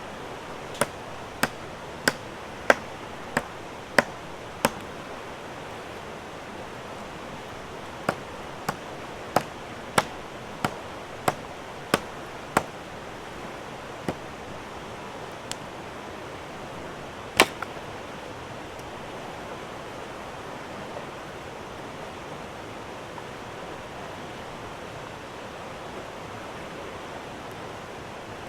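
Sharp chopping strokes of a blade on wood, about one and a half a second, in two runs of seven or eight strokes, then one louder single stroke; a steady rushing of the river underneath.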